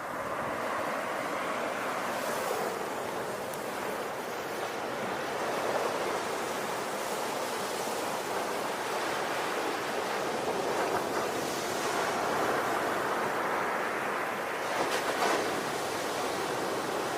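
Ocean surf: a continuous rushing wash of waves, swelling and easing, which grows louder right at the start, with brief hissing crests a couple of seconds in and near the end.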